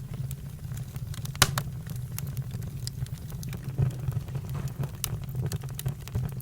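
Campfire crackling with irregular sharp pops, one louder pop about a second and a half in, over a steady low rumble.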